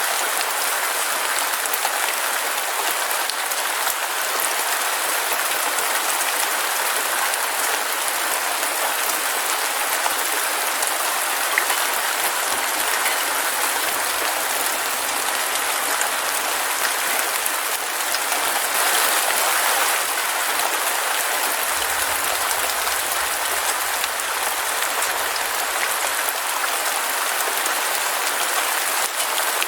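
Heavy rain falling in a steady, dense hiss of drops, swelling a little about two-thirds of the way through.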